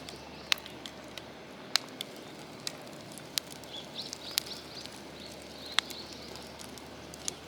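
Wood fire burning, with sharp, irregular crackles and pops over a low steady background. Faint high chirps come and go in the middle.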